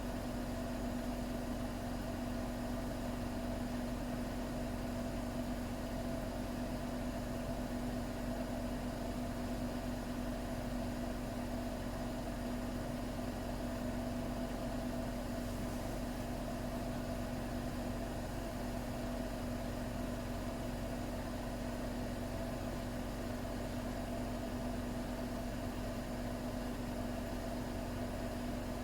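Bosch Serie 6 WAT286V0 washing machine running with a steady hum that holds one constant pitch, with a fainter higher tone above it.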